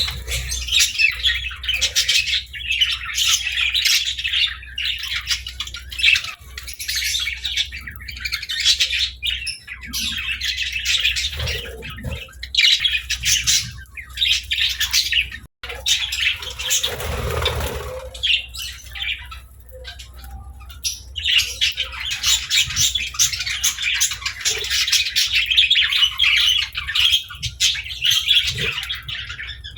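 A flock of budgerigars chirping and chattering continuously, the calls thinning out for a few seconds about halfway through.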